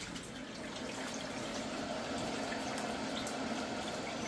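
Water running steadily, like a tap or a system filling.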